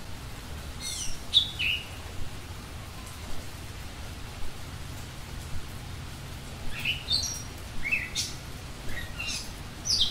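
Small bird calling in short, quickly falling chirps over a steady hiss of rain. There are about three chirps about a second in and a run of five or six in the last few seconds.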